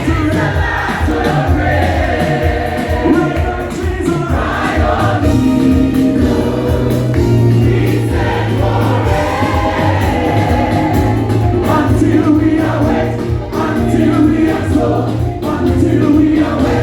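A choir singing a gospel song, several voices together over a steady low bass.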